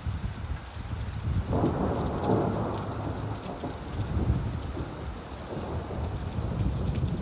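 Steady rainfall with a low rumble of thunder that swells about a second and a half in and rolls on for a few seconds before fading.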